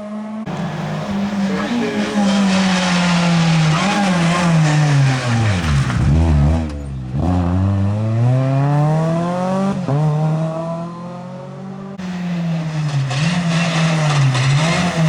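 Rally car engine under hard driving. The revs fall steeply to a low point about six seconds in, as the car slows for a corner, then climb again through several quick upshifts as it accelerates away, with some tyre squeal.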